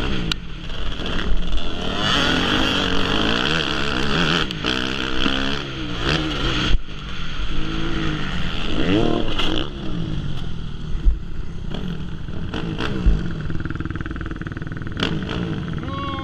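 Motocross dirt bike engines revving, the pitch rising and falling repeatedly as the throttle opens and closes.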